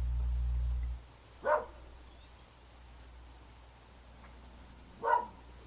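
Dogs barking: two single short barks, about a second and a half in and again near the end, with faint high bird chirps between them. A low hum stops about a second in.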